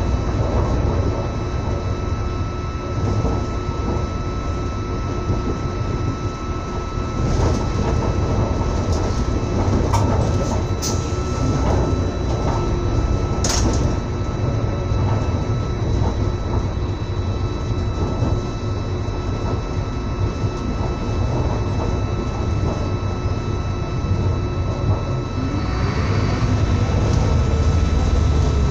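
Train running along the track, heard from inside the carriage: a steady low rumble with a faint steady whine above it. A few sharp clicks or knocks come between about a third and halfway in.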